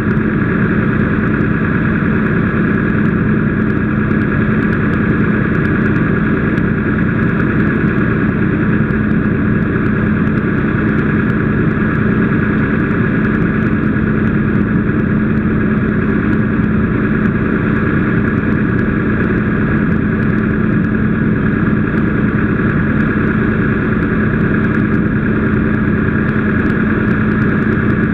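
An engine running steadily at one unchanging speed, a constant drone with a steady hum.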